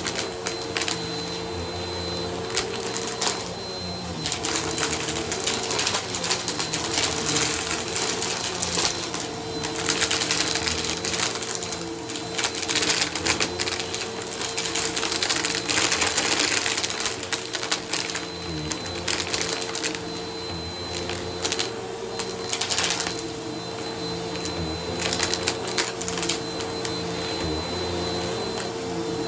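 Bissell vacuum cleaner running on a shag rug, its motor giving a steady hum and whine. Over it comes dense crackling and ticking as crunchy grit is sucked up, swelling and easing in waves with each pass.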